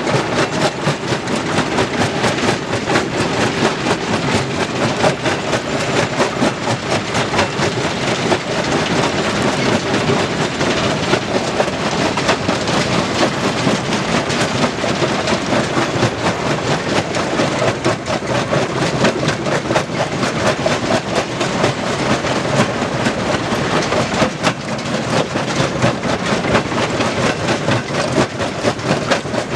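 Stone-crushing machinery running, with a steady, dense clatter of rock being broken and rattling through it.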